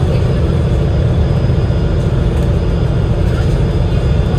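Cabin noise of an Enviro500 MMC double-decker bus on the move: its Cummins L9 diesel engine and road noise make a steady low rumble.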